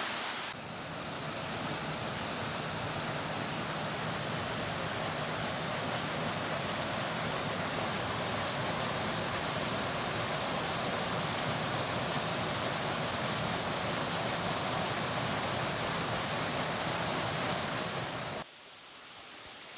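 A waterfall rushing: a steady, even roar of falling water, cut off abruptly near the end by a much quieter background.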